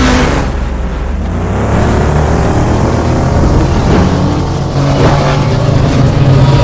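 Motorcycle engine running loud under way, its pitch shifting up and down as it revs.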